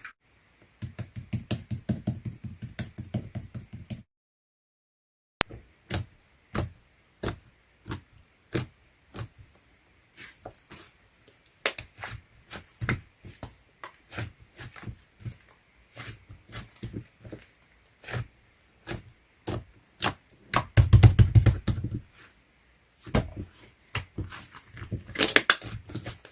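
Slime being pressed and poked by hand, making a run of small sharp clicks and pops, with denser, louder squishing bursts twice near the end. The sound drops out completely for about a second and a half about four seconds in.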